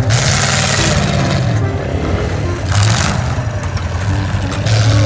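A vehicle engine running and revving, with a low pulsing drone, while a loud rushing hiss swells and falls away several times over it.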